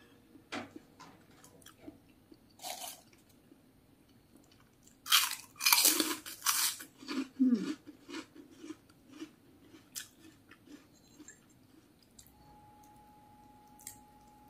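Crisp kerupuk crackers being bitten and chewed close to the microphone. The crunching is loudest in a run about five to seven seconds in, then settles into softer chewing clicks.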